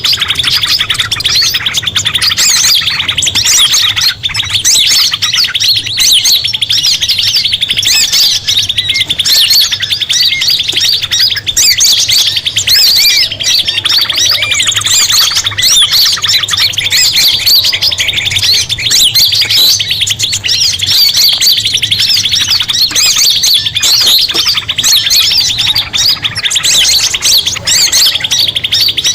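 Dense, non-stop chirping and trilling of several small songbirds layered together, a bird-lure call recording for prinias and sunbirds. A faint low hum runs beneath it.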